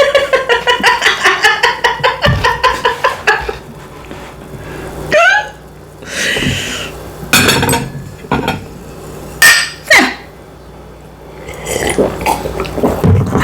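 Close-miked eating sounds: chewing and cutlery clinking on dishes, mixed with short vocal noises.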